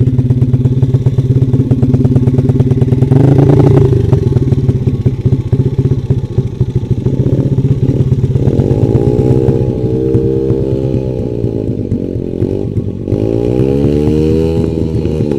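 Trail motorcycle engine running at low revs, then revved up and back down twice in the second half, each rise and fall lasting a couple of seconds.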